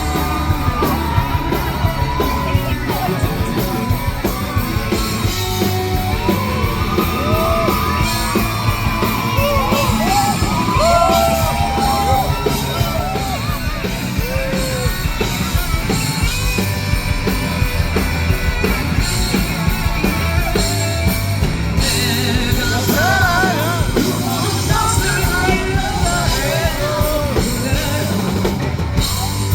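A Korean rock band playing live and loud, with a voice yelling and singing over the band.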